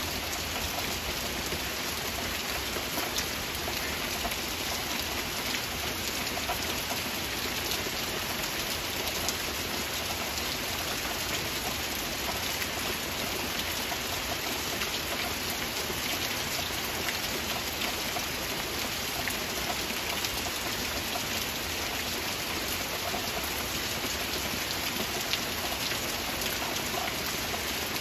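Steady heavy rain: a dense, even hiss of falling rain with many small individual drop ticks through it.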